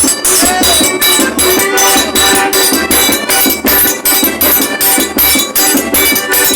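Forró music from a trio of accordion, zabumba bass drum and triangle, played with a quick, steady beat.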